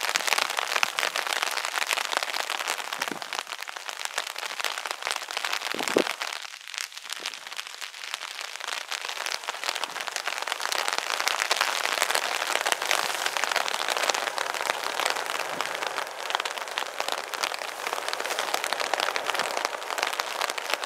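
Steady rain, a hiss made of many small drop ticks, with a single sharp knock about six seconds in.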